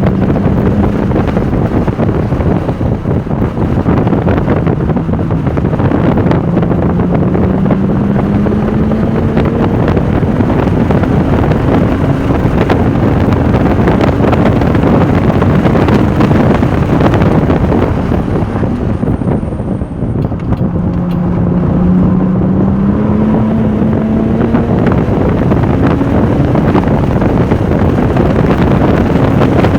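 Porsche 996 Turbo's twin-turbo flat-six pulling hard on track, its pitch climbing slowly under acceleration, with heavy wind noise on the microphone. The level dips briefly about two-thirds of the way in, then the engine climbs again.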